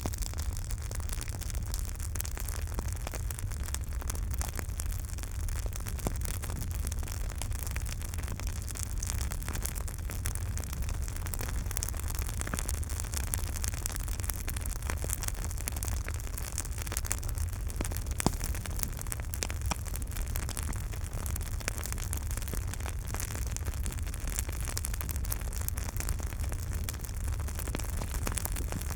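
Campfire burning with a steady hiss and low rumble, full of small crackles and pops from the burning wood, with one sharper pop about two-thirds of the way through.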